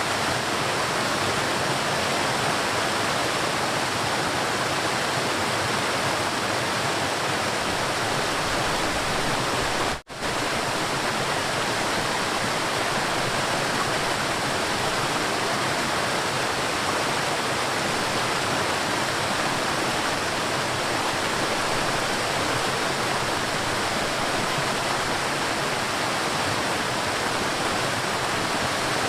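River water flowing and rushing steadily. The sound drops out for a split second about ten seconds in.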